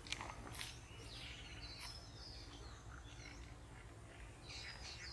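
Birds chirping, a string of short calls that glide up and down in pitch, over a low steady rumble.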